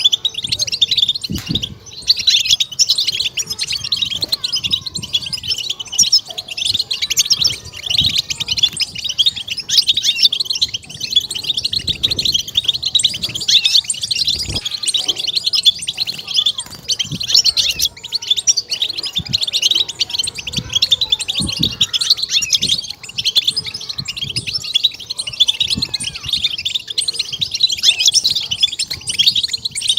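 European goldfinch singing a continuous, rapid twittering song of high, quick notes, the fast 'batbata' phrasing that keepers play to stimulate their birds, with occasional faint low thumps.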